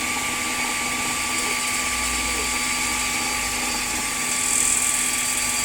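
Japanese table saw's electric motor and blade running steadily with a high whine, getting briefly a little louder about four and a half seconds in.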